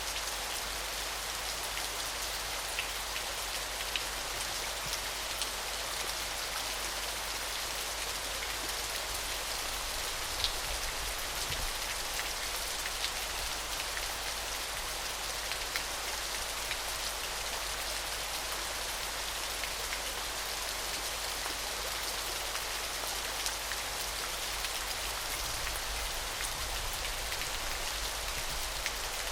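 Small waterfall splashing steadily: an even, bright hiss of falling water with scattered droplet ticks.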